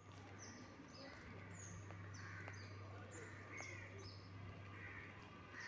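Small birds chirping: a run of short, high notes, each sliding downward, about two a second, over a steady low hum.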